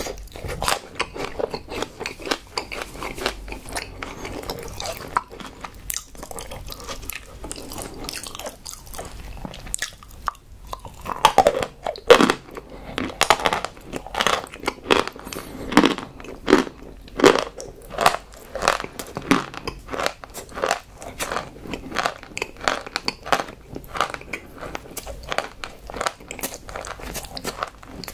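Close-miked chewing of a bite of raw aloe vera leaf: a steady run of wet, crunching chews, louder and more regular for a stretch in the middle.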